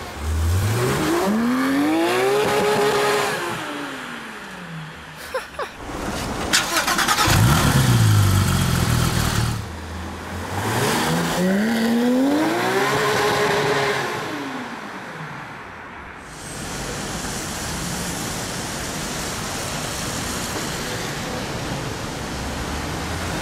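Supercar engines revving on the street: two rising-then-falling revs, with a harder, louder burst of acceleration between them and a few sharp cracks just before it, then steadier traffic noise.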